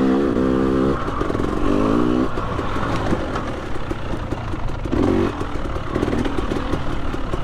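KTM 300 XC TPI two-stroke dirt bike engine revving in short bursts of throttle, several times, as it is ridden over rough trail.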